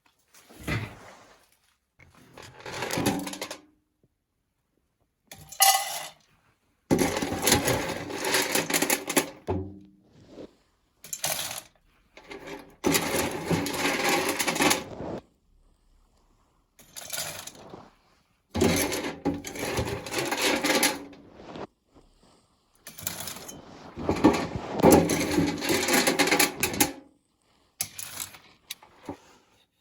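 Metal parts being handled, clinking and scraping against each other in a series of separate bursts a second or a few seconds long.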